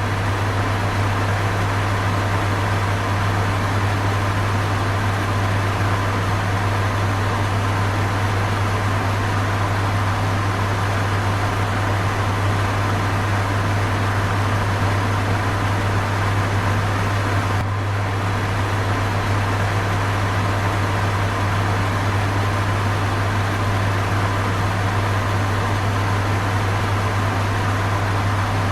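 Electric fan running steadily: an even rush of air with a strong low hum beneath it. There is a slight brief dip in level about eighteen seconds in.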